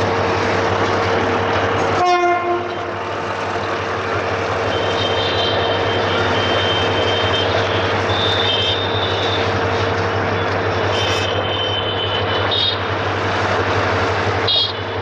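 Freight train rolling past with a steady rumble of wagons on the rails. A brief horn toot sounds about two seconds in, and high-pitched wheel squeal comes and goes from about five seconds in.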